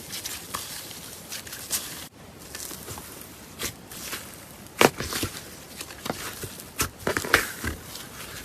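Slime being squeezed and pressed by hand, making irregular sharp clicks and crackles over a light hiss. The sound drops out briefly about two seconds in, and the loudest clicks come near the middle and again a couple of seconds later.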